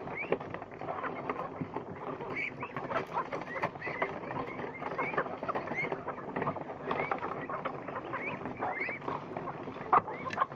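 A flock of poultry, ducks and chickens, eating a grain-and-feed mash and drinking, with a constant patter of pecking and dabbling in the water and food and many short, high, rising peeping calls several times a second.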